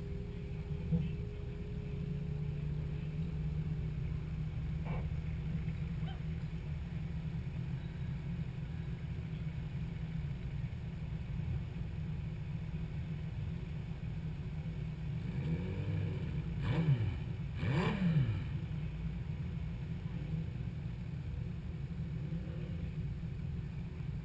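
Car engines idling with a steady low rumble. About two-thirds of the way through, two brief louder engine sounds sweep sharply down in pitch.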